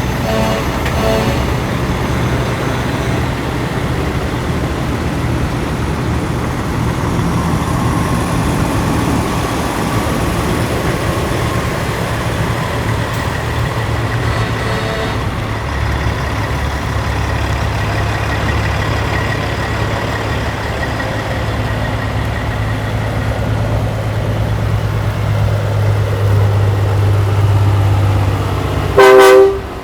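Large engine running steadily, with a faint high whine over it. A short loud pitched blast comes just before the end.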